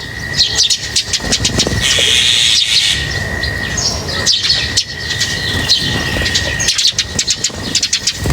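A flock of small birds chirping rapidly and continuously, many quick high calls overlapping, with a short hissing rustle about two seconds in.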